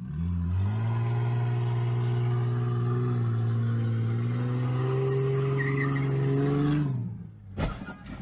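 Car engine running under load, its pitch holding and then stepping gradually upward, cutting off about seven seconds in. A short, sharp bang follows soon after.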